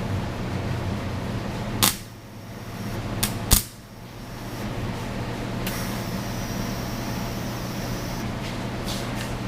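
Metal parts and tools being handled on a workbench: a few sharp clacks over a steady low hum, then a few seconds of hiss.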